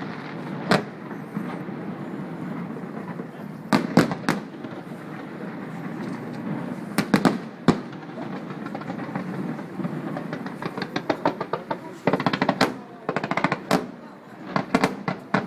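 Fireworks going off: separate sharp bangs every few seconds, then from about ten seconds in a long run of rapid crackling reports, over a steady murmur of the crowd.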